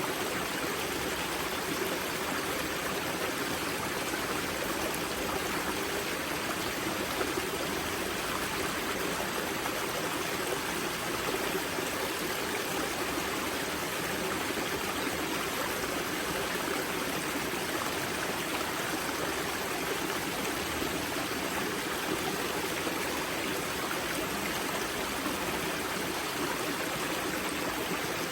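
Spring-fed mountain river at its source, water flowing and splashing in a steady rush with no breaks.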